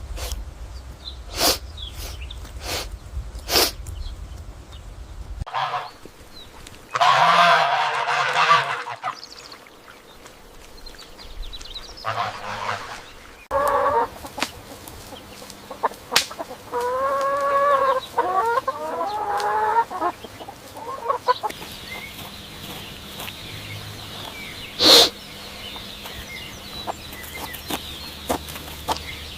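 Domestic fowl calling in several separate bursts, each with a clear pitch that bends up and down. Sharp clicks over a low rumble come early, and a single loud click comes later.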